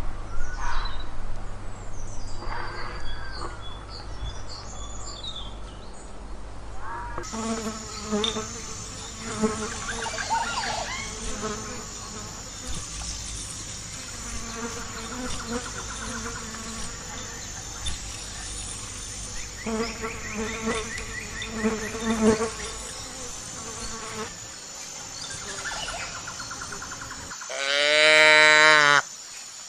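Insect buzzing, coming and going in bursts over a steady high whine, typical of a fly. Near the end, a loud call, a cow mooing, briefly takes over.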